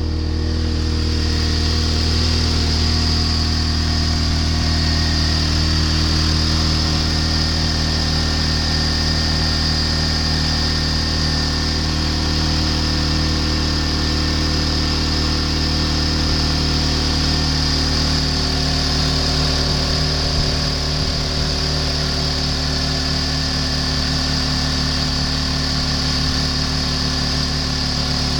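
2004 Honda Civic four-cylinder engine idling steadily.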